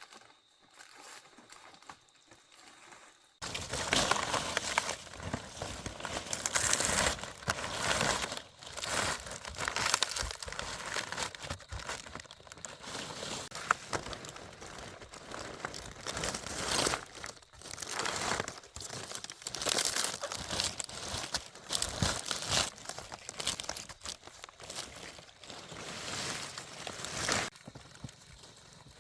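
Dense, irregular rustling and crinkling, like dry material being handled or crushed. It starts abruptly a few seconds in and drops away shortly before the end.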